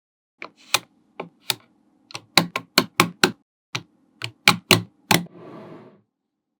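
Small magnetic balls clicking sharply together as they are placed, about twenty irregular snaps, bunched quickly in the middle. Near the end comes a short rattle, as of a cluster of balls shifting.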